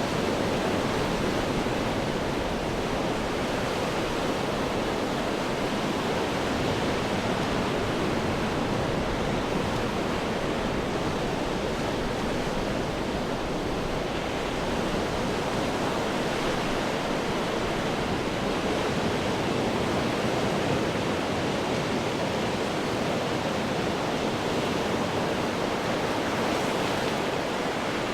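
Ocean waves breaking on rocks, heard as a steady, continuous wash of rushing water without separate, distinct crashes.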